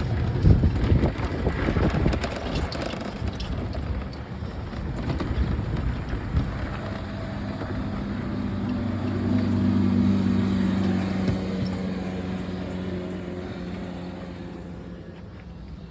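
A motor vehicle's engine running: a steady low hum that grows louder to a peak about ten seconds in and then fades. Irregular knocks and clatter come in the first few seconds.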